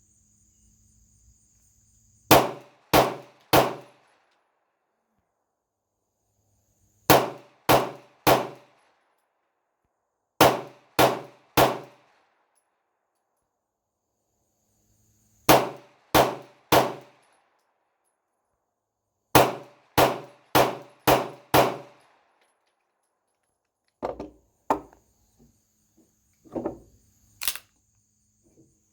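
9mm pistol firing 115-grain FMJ rounds in quick strings, about 0.6 s between shots: four strings of three, then a string of five. Fainter, quicker shots follow near the end. A faint steady high whine is heard between some strings.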